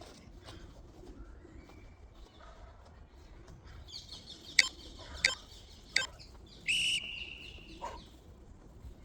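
Birds calling, with three sharp knocks about two-thirds of a second apart midway through, then a loud, high, held call lasting about a second.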